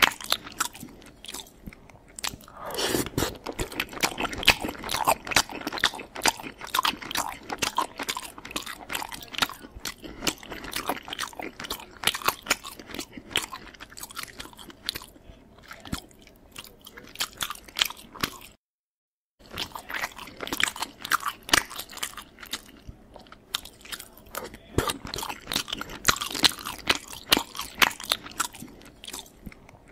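Close, wet chewing and lip-smacking of a person eating, a rapid irregular run of mouth clicks. The sound drops out completely for under a second about two-thirds of the way through.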